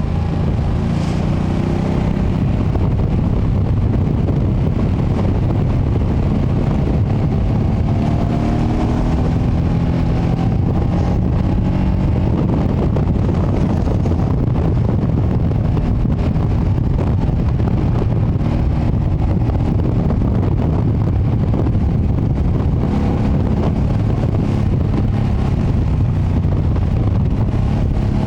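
2025 Ducati Panigale V2S's 890 cc V-twin on its stock exhaust, under way on the road, its engine pitch rising and dropping back several times as it pulls through the revs. Heavy wind buffeting on the microphone runs under it.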